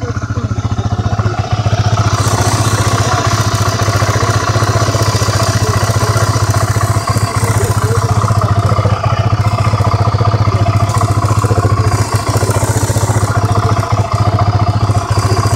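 Yamaha TT-R250's single-cylinder four-stroke engine running steadily, a little louder from about two seconds in.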